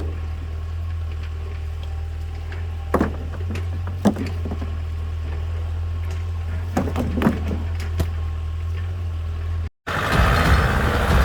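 Tractor engine running steadily at idle, with a few sharp knocks over it. About ten seconds in the sound cuts out briefly and comes back as louder, rougher engine running.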